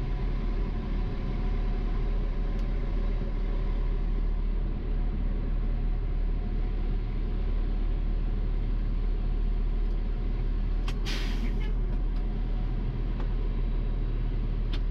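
Garbage truck's diesel engine idling steadily, with a short burst of hissing air, like an air brake release, about eleven seconds in.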